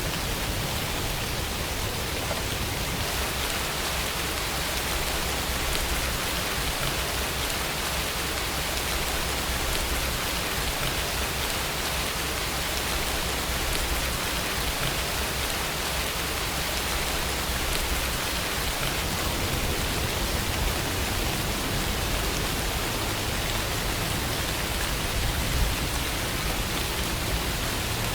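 Steady rainfall: an even, unbroken hiss of rain with no single drops or thunder standing out.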